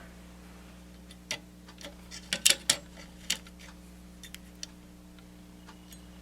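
Sharp clicks and taps of small parts being handled on a workbench, loudest in a quick cluster about two and a half seconds in, over a steady low electrical hum.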